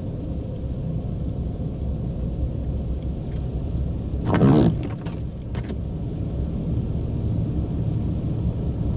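Car cabin noise while driving on a snow-covered road: a steady low rumble of tyres and engine as the car struggles for grip. A short, loud pitched sound cuts in about halfway through.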